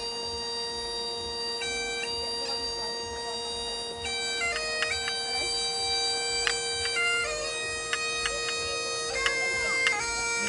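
Bagpipes played solo: a steady drone under a held chanter note, then a melody that starts moving about a second and a half in and turns busier, with quick grace notes, from about four seconds in.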